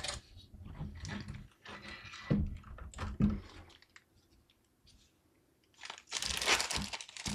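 Hands handling hardware with a few soft knocks and rubs, then from about six seconds in, packaging crinkling loudly.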